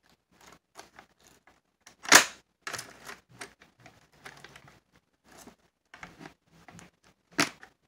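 Plastic clicks and knocks of a VHS cassette being handled while its hinged tape cover is pried open, with a loud snap about two seconds in and another near the end.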